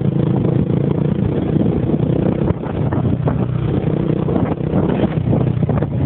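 Motorcycle engine running steadily at a constant pitch, with no clear revving.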